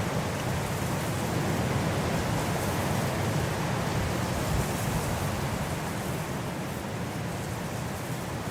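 Winter wind blowing as a steady, dense rush, heaviest in the low end, easing a little near the end.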